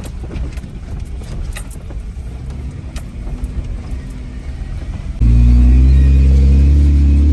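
Jeep Wrangler driving on the trail: a low engine drone with a few light knocks. About five seconds in, the engine suddenly comes in much louder and closer, running steadily at low pitch.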